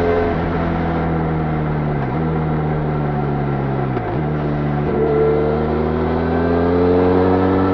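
Benelli Leoncino 500's parallel-twin engine through its stock exhaust, on the move: the engine note sinks slowly for about four seconds with short dips around two and four seconds in. After another dip at about five seconds it climbs steadily as the bike accelerates.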